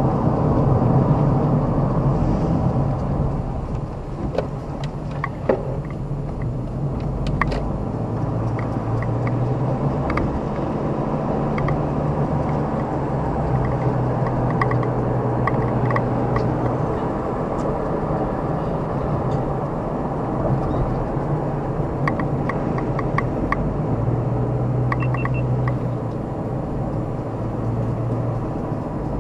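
Car driving along a road: steady engine hum that rises and falls a little with speed, over a continuous rumble of tyre and road noise, with scattered small clicks and rattles.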